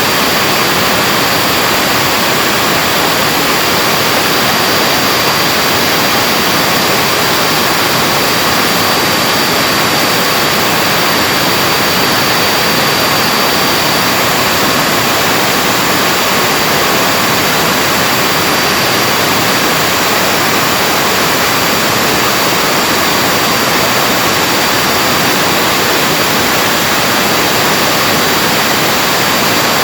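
Vacuum cleaner's brushed universal motor running at full speed: a loud, steady rush of air with a high whine. It is sparking heavily, the sign of carbon brushes damaged by overheating and a crusted commutator, which is being polished with a pumice stone.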